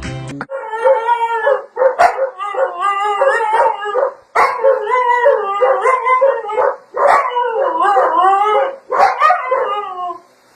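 A dog howling in long, wavering, yodel-like calls, about four stretches with short breaks between them.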